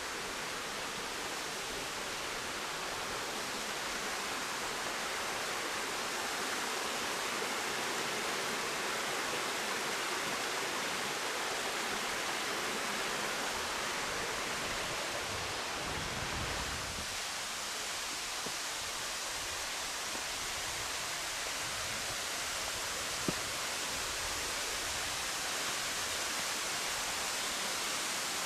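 Steady rush of falling water from a mountain waterfall or stream, an even hiss without pauses, with one small click about twenty-three seconds in.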